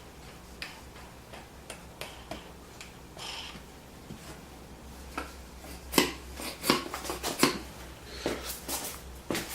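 Wooden dowel-making jig being handled: scattered light knocks and clicks of wood and hardware, sparse at first and coming thick and fast in the second half. The belt sander is not running.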